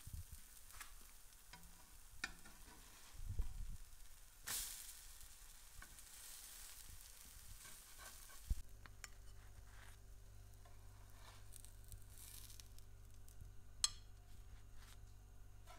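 Zucchini-and-egg fritters sizzling faintly in oil in a nonstick frying pan, with scattered taps and scrapes as a spatula turns and lifts them. About halfway through, after a knock, the sizzle drops away and a low steady hum is left.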